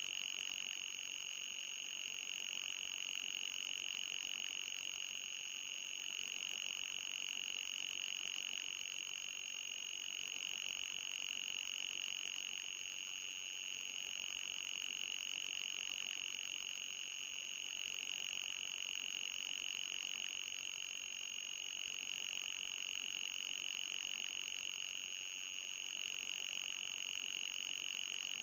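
Synthesized anti-mosquito repellent tone: a steady, high-pitched electronic whine with a fainter, higher tone above it, swelling and easing slightly in loudness every few seconds.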